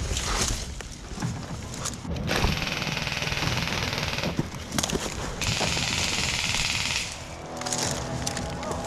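Airsoft electric gun firing two long full-auto bursts, a rapid rattle lasting about two seconds and then about a second and a half, over electronic background music.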